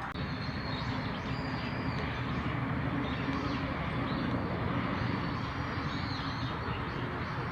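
Steady low outdoor rumble of background noise, with faint, short, high bird calls over it every second or so.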